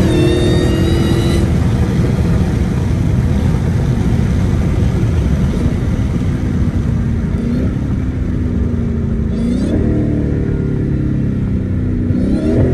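Supercharged 6.2-litre Hemi V8 of a modified Dodge Hellcat running under way. A high supercharger whine in the first second or so fades as the engine settles into a steady low rumble. The revs climb briefly about three-quarters of the way through and again near the end.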